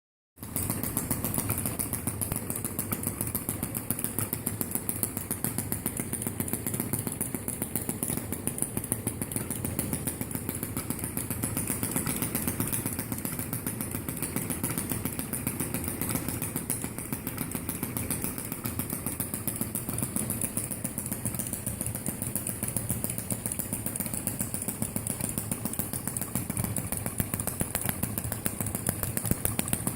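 Several small model engines running at the same time, a steady, rapid mechanical chatter of many firing strokes blended together.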